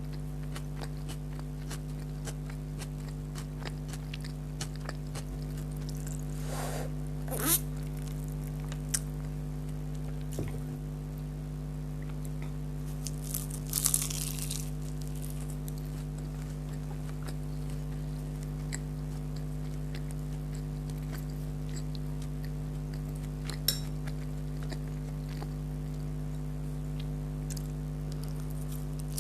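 Close-up chewing and crunching of fried beef kachori and onion, a soft run of small clicks with a few louder crunchy bites, about seven, fourteen and twenty-four seconds in. A steady electrical hum lies under it.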